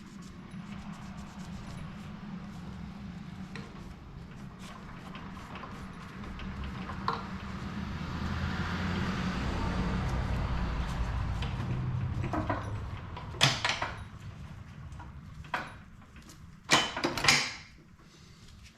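Workbench handling sounds over a steady low hum: scattered clicks and knocks of tools and engine parts, a swelling rush of noise in the middle, and a few short, loud hissing bursts near the end.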